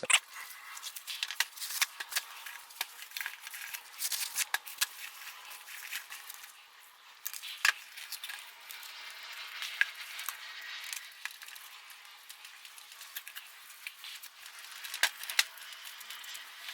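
Plastic wrap and wet rags crinkling and rustling as they are wrapped by hand around a steel spindle, with scattered sharp clicks and taps.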